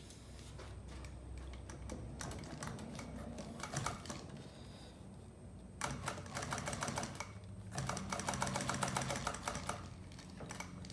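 Upholstery sewing machine stitching piping (welding) cord into a fabric strip in three short runs of rapid, even stitching clicks over a low motor hum.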